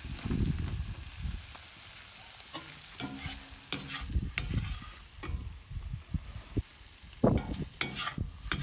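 Metal slotted skimmer scraping and stirring pilaf zirvak (meat, onion and carrot) frying in a cast-iron kazan, the food sizzling. The utensil scrapes sharply against the pot several times, a cluster around the middle and another near the end.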